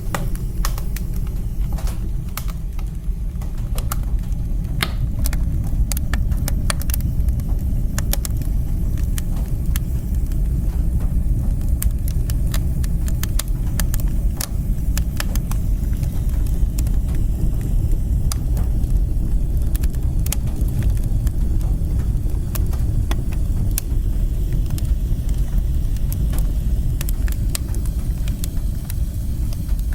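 Wood fire burning in a fireplace: a steady low rumble of flames and chimney draft, with sharp crackles and pops scattered throughout, more frequent in the first half.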